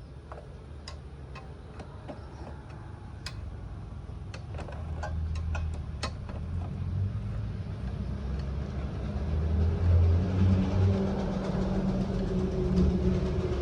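Motorcycle engine running, growing steadily louder, with a scatter of light clicks in the first half.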